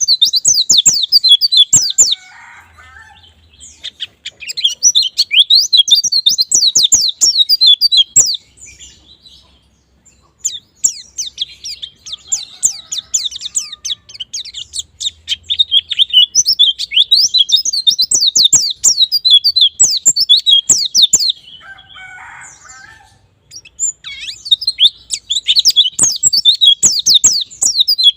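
A white-eye (pleci) singing long bouts of very fast, twittering high-pitched song, with short pauses between bouts. This is the wild 'ngalas' type of song used as a lure to get young pleci singing.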